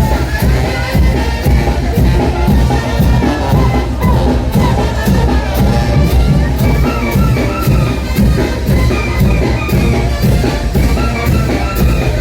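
Mexican banda brass band playing a son de chinelo, with brass over a steady beat and a crowd beneath it.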